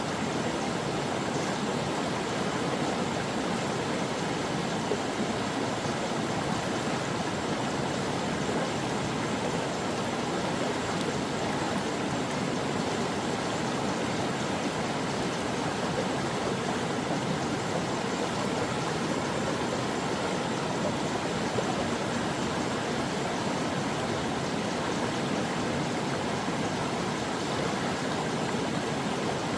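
A brook flowing over rocks: a steady, even rush of running water.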